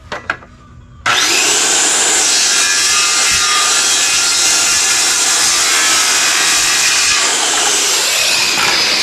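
Power saw cutting wood: a few light handling clicks, then about a second in the saw starts suddenly and runs loud and steady.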